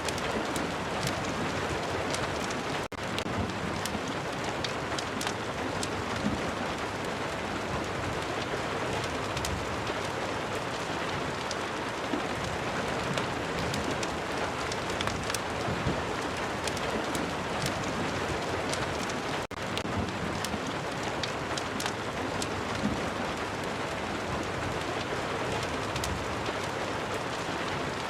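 Steady rain, with many small sharp crackles scattered through it, in keeping with a fireplace burning. The sound cuts out for an instant twice.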